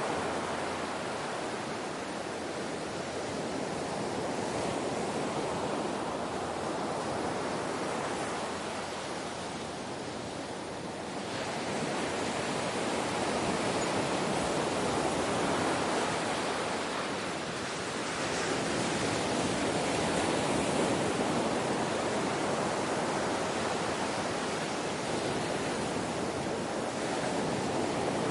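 Ocean waves washing in continuously, swelling and easing every several seconds, with dips near the one-third and two-thirds marks.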